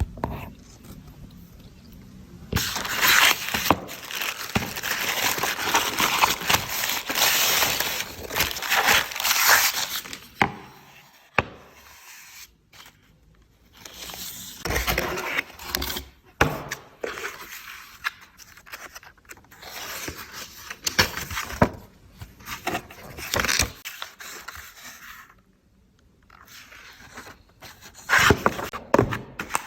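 Scraping, tearing and crackling handling noises with many sharp clicks, in loud stretches broken by a couple of short gaps.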